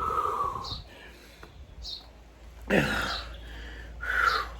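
A man breathing hard and letting out several voiced sighs and groans, out of breath from physical exertion. One drawn-out groan falls in pitch a little under three seconds in.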